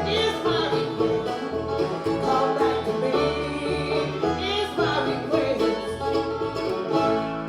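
Live bluegrass band playing an instrumental break, with a banjo picking prominently over guitar and a steady bass line.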